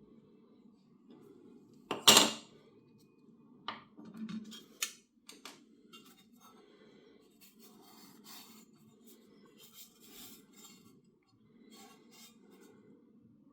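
Small hard parts and hand tools handled at a workbench: a sharp clack about two seconds in, a few lighter clicks, then faint intermittent scraping and rubbing.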